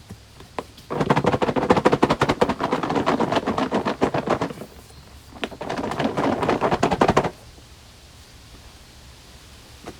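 Two bursts of rapid, fast-repeating knocks: the first lasts about three and a half seconds, and the second, a second later, just under two.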